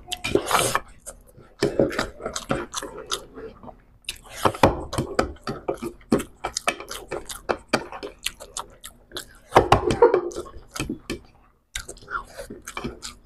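Close-up chewing of people eating rice and fried hilsa with their hands, full of quick, sharp mouth clicks and smacks, with louder bursts of chewing about half a second, four and a half seconds and ten seconds in.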